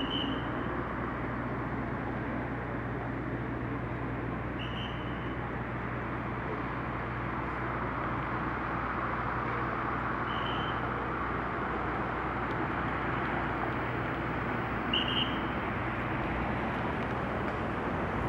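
Steady running noise of a vehicle with a low hum, with four brief high chirps about five seconds apart.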